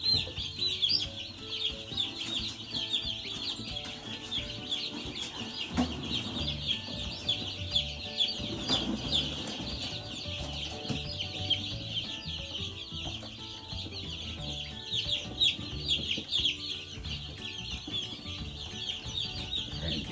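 A brooder full of newly delivered Cornish Cross broiler chicks peeping continuously, a dense chorus of many overlapping high chirps.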